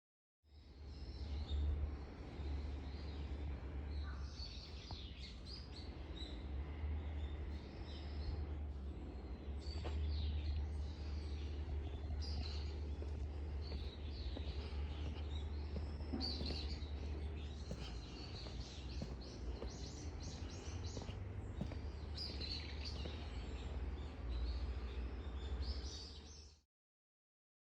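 Small birds chirping and twittering again and again over a steady low rumble of outdoor ambience.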